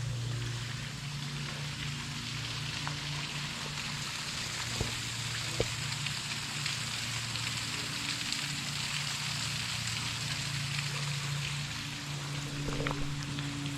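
Steady hiss of running water, with a low steady hum underneath and a few faint clicks.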